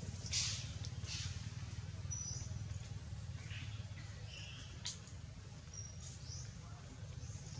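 A few short, high bird chirps scattered over a steady low rumble. There are two brief hissy rustles near the start and a single sharp click about five seconds in.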